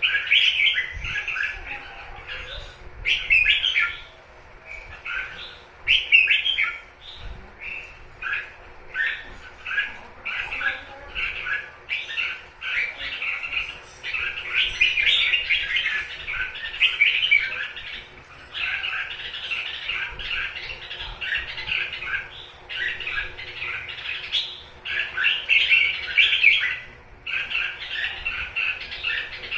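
Red-whiskered bulbul giving its 'túc túc' call: rapid, repeated short chattering notes in clusters, with brief pauses near 4, 18 and 27 seconds.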